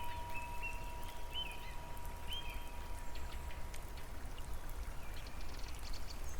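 Water pattering and trickling, with scattered drips over a steady low rush. There are a few short bird chirps in the first couple of seconds, and a single chime note rings on until it fades near the end.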